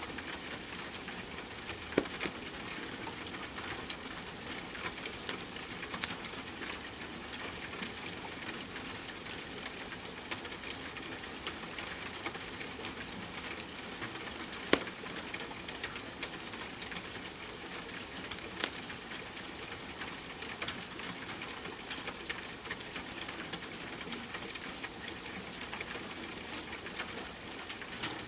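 Steady rain hiss mixed with the crackle of a wood fire: an even wash of noise dotted with short sharp pops, the loudest about two seconds in and halfway through.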